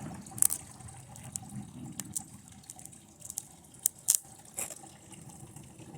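Irregular sharp crackles and snaps of electrical arcing as lead acid battery leads carry high current into a TV circuit board, with the loudest snaps about four seconds in. The board is heating up to the point of catching fire.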